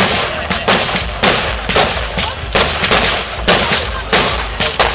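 Fireworks display going off in quick succession: loud, sharp bangs about two to three a second, with crackling between them.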